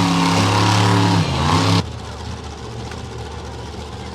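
Monster truck engine running loud at high revs, cut off suddenly a little under two seconds in, leaving a quieter low engine idle.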